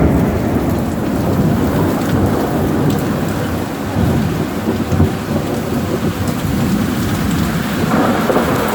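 Heavy rain and gusting wind of a thunderstorm: a loud, steady rushing with low rumbling swells as the gusts come and go.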